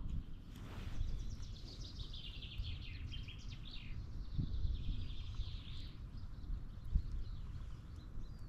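Bird song: a run of quick, high chirps and trills from about a second in to about six seconds in, over a steady low rumble.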